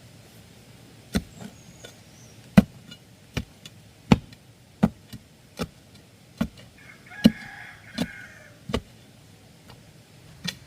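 Chopping blows on bamboo, about a dozen sharp strikes at a steady pace of roughly one every three-quarters of a second, with a short gap near the end before a last blow.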